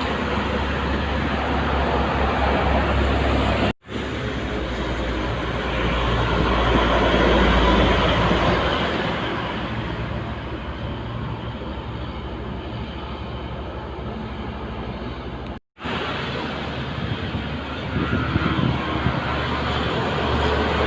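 Heavy trucks passing on a busy highway: steady engine rumble and tyre noise that swells as one goes by about eight seconds in. The sound cuts out sharply twice, for a split second each.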